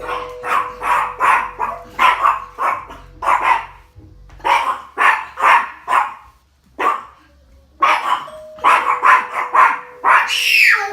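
A dog barking in rapid volleys of short barks, set off by the doorbell, with a longer rising-and-falling cry near the end.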